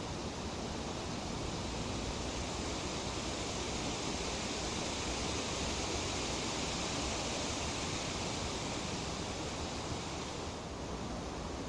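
Breeze rustling tree leaves as a steady hiss. The hiss swells in the middle and eases a little near the end.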